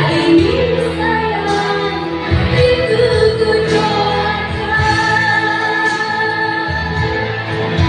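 A woman singing a slow pop ballad live over band accompaniment, with long held notes.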